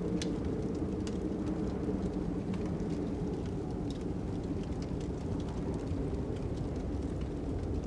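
Ambient fire crackling, with scattered sharp pops over a steady low rush of wind.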